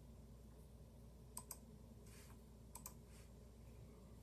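Near silence: a steady low hum with a few faint clicks, two pairs of them about a second and a half and about three seconds in.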